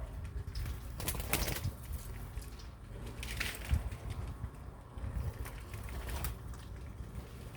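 Birds moving about: a few short scratchy rustles, about a second in, around three seconds, and twice more later, over a low steady rumble.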